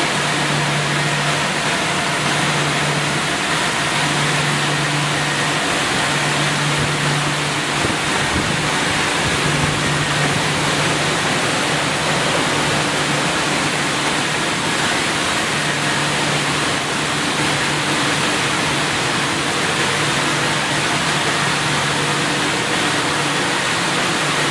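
Automatic car wash machine running: a steady, loud rushing noise with a low motor hum that cuts in and out every few seconds.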